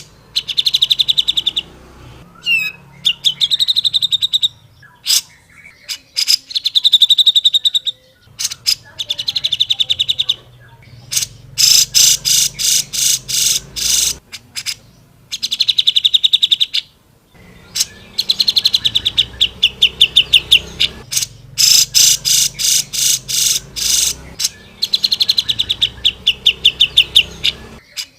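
Cucak jenggot (grey-cheeked bulbul) calling loudly in bursts of rapid, harsh chattering trills, each a second or two long, repeating with short pauses.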